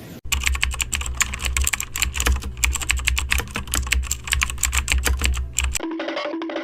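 Rapid, continuous typing on a computer keyboard, many keystrokes a second, over a steady low hum. The typing starts suddenly just after the start, stops abruptly near the end, and a short melody of repeating notes takes over.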